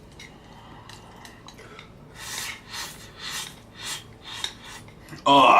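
A person eating spicy instant noodles close to the microphone: a run of short hissing eating sounds, about two a second, with light utensil-on-bowl noise, then a short loud vocal exclamation near the end.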